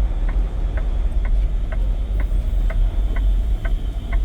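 Turn signal ticking about twice a second inside a semi-truck cab, over the steady low rumble of the truck's engine.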